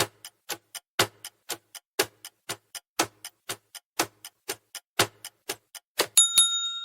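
Quiz countdown-timer sound effect: a clock ticking about four times a second, with a louder tick on each second, ending in a ringing ding near the end.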